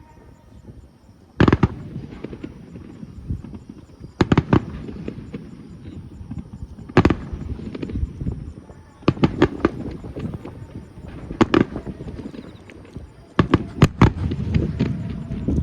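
Fireworks display: aerial shells bursting with sharp bangs every few seconds, each followed by a rolling rumble. The first burst comes after about a second and a half, and they come closer together near the end, with a cluster of reports late on.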